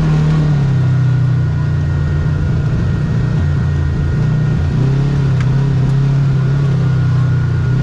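Kawasaki KRX side-by-side's parallel-twin engine running at trail speed, its pitch shifting up and down in the middle, with a thin steady whine above it.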